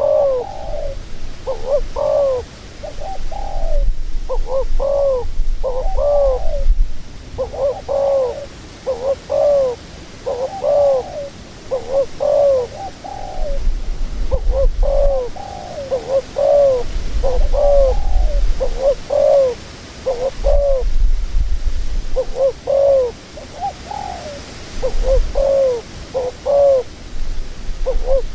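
Dove cooing over and over in short arched notes, grouped in quick runs with brief gaps, with intermittent low rumbling underneath.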